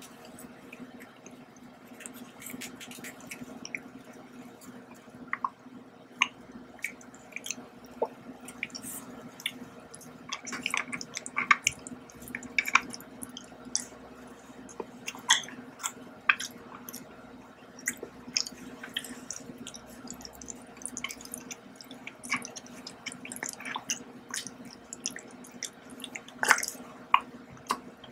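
Close-up chewing and biting of a thin Halloween treat: irregular wet mouth clicks and smacks with small crunchy bites, over a steady low hum.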